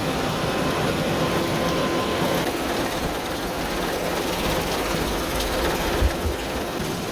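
John Deere W540C combine harvester running at harvest, a steady mechanical drone of engine and working machinery, with a brief low thump about six seconds in.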